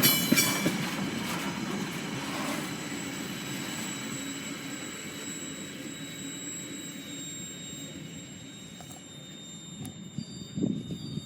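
Loaded ore wagons rolling past on the rails, wheels clicking over rail joints, with a thin steady high squeal from the wheels. The rumble fades away as the train recedes, and a few dull thumps come near the end.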